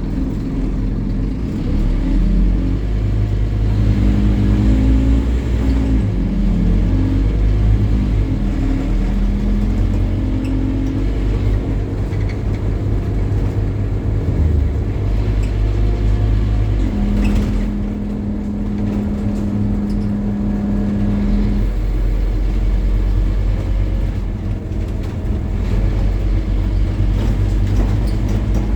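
Scania N270UD OmniCity double-decker bus running under load, its 9-litre five-cylinder diesel engine rising in pitch through the gears, then holding one steady drone for a few seconds a little past the middle.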